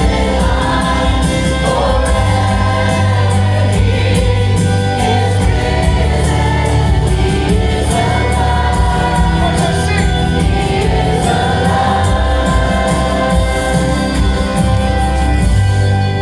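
Gospel praise music: a choir or worship singers over a full band with a steady beat.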